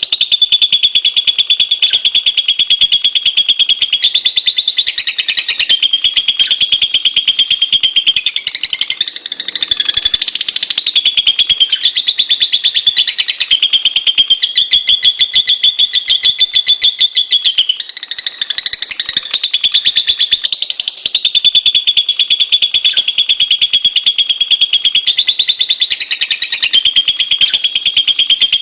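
Lovebird chattering continuously: a fast, unbroken stream of shrill, high chirps that waver up and down in pitch, easing briefly twice.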